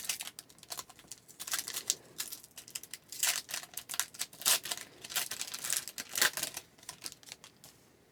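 A foil hockey card pack wrapper being torn open and crinkled by hand, a dense run of crackles and small clicks that dies away near the end.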